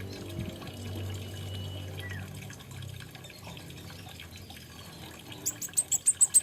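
Kolibri ninja, a sunbird, giving a rapid series of sharp, high chips that start near the end, about three or four a second. Before them there is only a steady low hum with a faint watery trickle.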